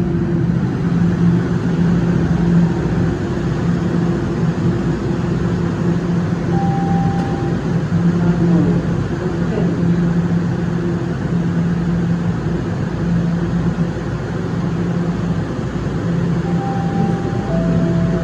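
TTC Line 1 subway train standing at the platform with a steady humming drone. Near the end a three-note descending door chime sounds.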